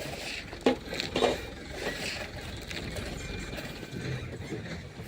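Two sharp knocks about half a second apart, over a steady rough background noise.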